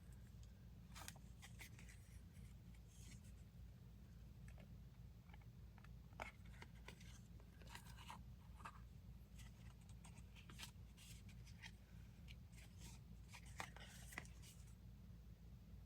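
Faint rustling and light scattered ticks of paper and thread being handled during hand-stitching of a paper tag, over a low steady hum.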